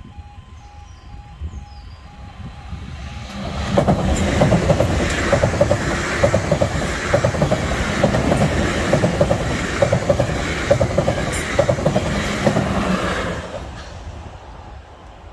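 Two coupled Class 444 electric multiple units passing over a level crossing, their wheels clattering in a steady rhythm. The sound swells about three and a half seconds in, holds, and fades away near the end.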